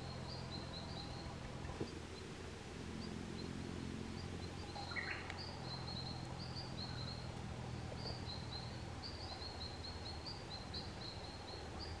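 Small birds chirping: short, thin, high chirps repeated a few times a second, with one brief lower call about five seconds in, over a steady low background hum.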